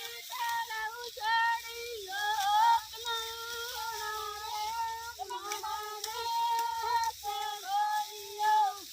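Women singing a Marwari bhahiya folk song unaccompanied, in high voices with long held, wavering notes and short breaks between phrases.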